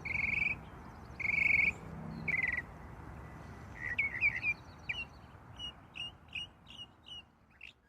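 Bird singing: three loud trilled notes in the first few seconds, then a run of short chirps about three a second that fade away, over a low steady background rumble.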